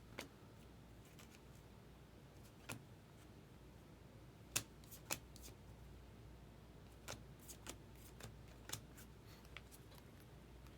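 Faint, scattered clicks and flicks of baseball cards being handled and sorted by hand, with a low steady hum under them.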